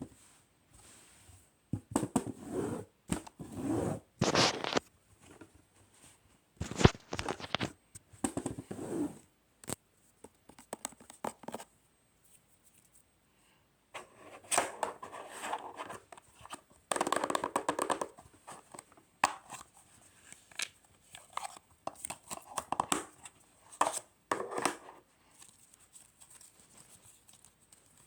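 Gift-wrapping materials being handled: crinkling, rustling and tearing in irregular bursts with short quiet gaps.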